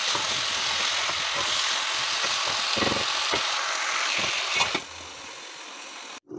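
Matoke, potatoes and tomatoes sizzling in oil in an aluminium pot over full heat: a steady hiss with a knock or two. It drops sharply near the end as the lid goes on.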